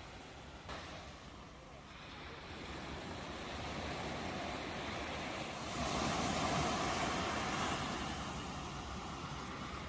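Sea waves washing onto the shore, a steady rushing that dips early, builds again, and surges loudest with one breaking wave about six seconds in before easing.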